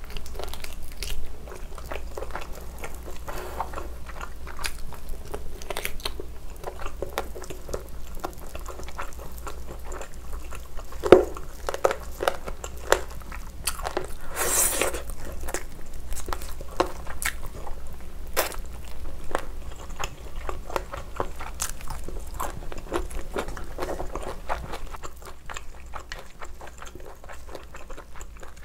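Close-up chewing and biting of oven-roasted smoked chicken in cream sauce: a steady run of small mouth clicks and chewing noises, with one sharp louder click about eleven seconds in.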